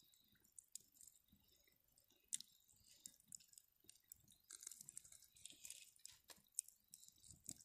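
Campfire crackling faintly, with scattered sharp pops of burning wood.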